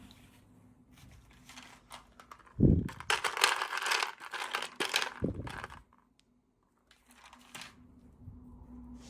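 Plastic packaging crinkling and tearing as it is handled and opened, with two low thumps, the first about two and a half seconds in and the loudest sound, then fainter crinkles near the end.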